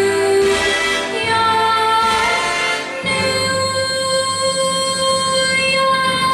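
A girl's solo singing voice with instrumental accompaniment, holding a long steady note from about three seconds in.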